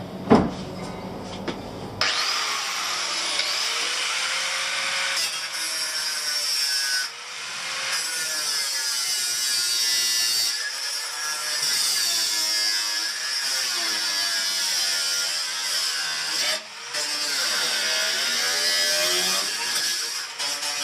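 An angle grinder grinding steel, its whine sagging and recovering as it is pressed into the metal and eased off. It starts about two seconds in, after a single knock, and breaks off briefly twice.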